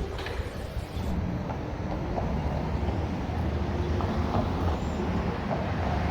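Steady low rumble of vehicle and road noise, growing slightly louder.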